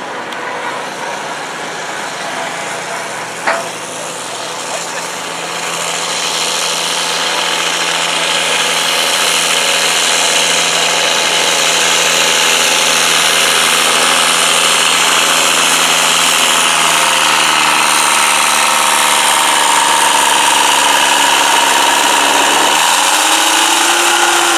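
Turbo diesel garden tractor engine running hard and steady under load while pulling a weight, growing louder from about five seconds in. Near the end its pitch climbs sharply as it revs up.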